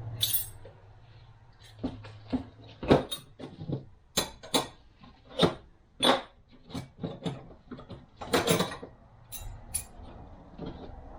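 Irregular series of sharp metallic clinks and knocks, about a dozen of varying loudness, as steel transmission parts are handled and set down on the workbench, over a faint steady low hum.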